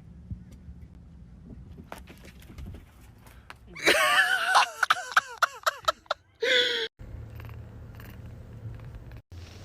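A cat yowling: a loud, long wavering cry about four seconds in, then a shorter meow falling in pitch. Before it there is only faint background noise with a few clicks.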